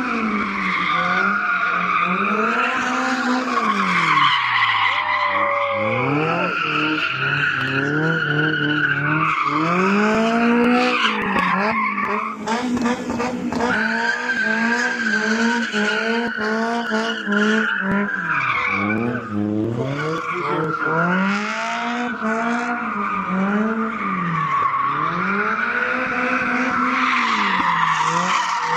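A car's engine revving up and down over and over while its tyres squeal continuously, as the car spins its wheels.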